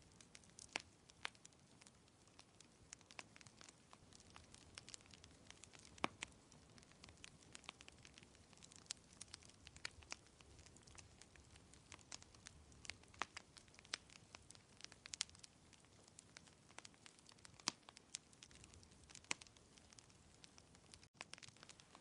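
Wood fire crackling, with irregular sharp pops and snaps over a faint steady hiss. There is a very brief dropout in the sound near the end.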